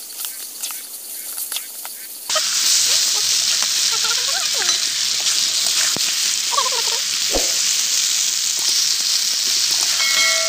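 Chicken pieces frying in a pan with oil and masala. There are scattered crackles at first, then a loud, steady sizzling hiss starts abruptly about two seconds in. A short ringing tone sounds near the end.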